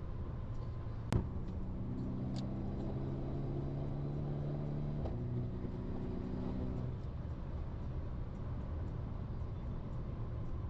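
Car being driven: a steady low engine and road rumble. An engine note holds steady from about two to seven seconds in, and there is one sharp click about a second in.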